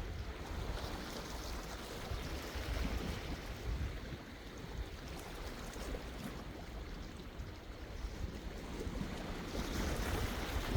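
Sea waves washing and breaking on the shore, with a low rumble underneath; the wash swells louder near the end.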